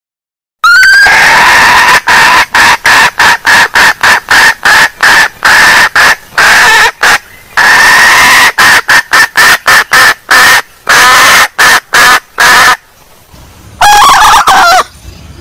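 Junglefowl hen clucking loudly in a rapid, uneven run of short calls, about two to three a second, for about twelve seconds. After a short pause there is one brief final burst of calls near the end.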